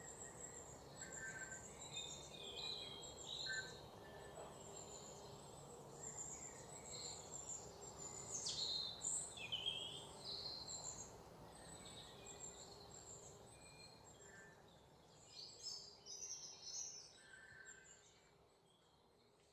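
Faint birds chirping: many short calls and quick falling whistles, over a low steady hum. The calls thin out near the end.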